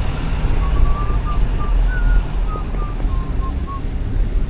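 Steady low rumble of city street traffic, with short, irregular high chirps scattered over it.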